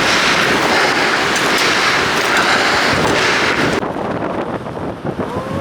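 Strong mountain wind blasting across the microphone as a loud, even rush, which drops off sharply about four seconds in to a quieter wind.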